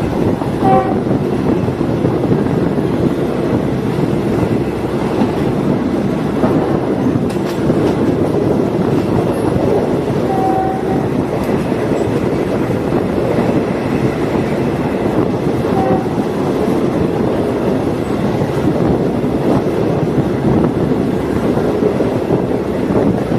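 Diesel multiple unit train running along the line, with a steady rumble and wheel clatter. Short horn toots come about a second in, near the middle and again a few seconds later.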